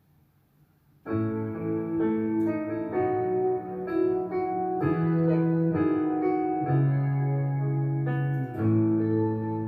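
Piano playing the instrumental introduction to a slow worship song, entering about a second in: sustained chords over held bass notes.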